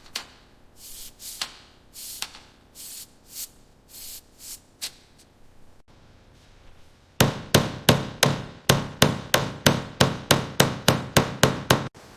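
Hand tool work: about a dozen soft, uneven rubbing strokes, then from about seven seconds in a fast run of sharp hammer blows, roughly three a second.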